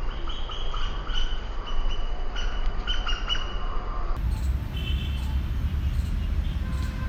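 Birds chirping in short repeated calls over a steady low rumble. About four seconds in the sound changes abruptly: the low rumble grows louder and only a few fainter chirps remain.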